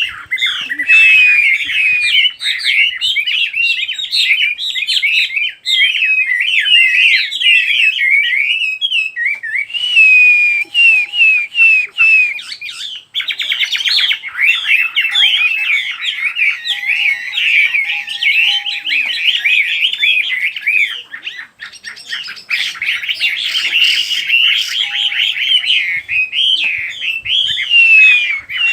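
A Chinese hwamei sings a loud, continuous, rapidly varied warbling song of quick notes and slurred whistles, with brief pauses between phrases.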